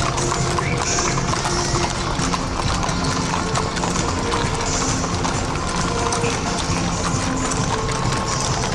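Horses' hooves clip-clopping on the road as mounted riders pass, with music playing at the same time.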